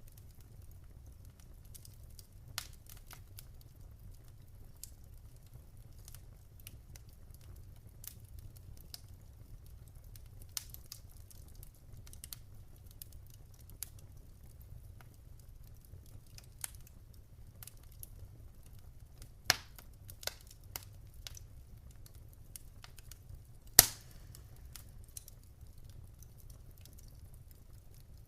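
Wood fire crackling: scattered sharp pops and snaps over a low steady rumble, with two louder pops about two-thirds of the way through and near the end.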